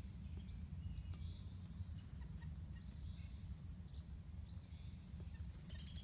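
Faint bird calls from the trees: short high notes repeated every second or so, over a low steady rumble.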